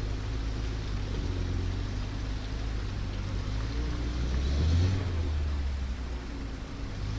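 Off-road 4x4's engine running under load with a steady low drone, swelling briefly about four and a half seconds in as it is revved, then easing back.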